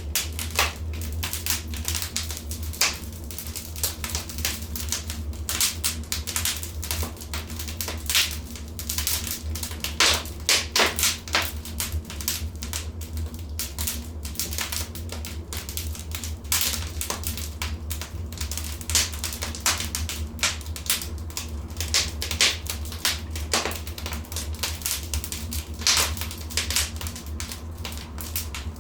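Wood fire in a fireplace crackling: irregular sharp pops and snaps, thickest around ten to eleven seconds in, over a steady low rumble.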